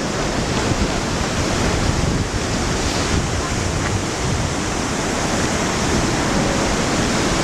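Kegon Falls, a tall plunge waterfall, rushing steadily: a dense, unbroken sound of falling water.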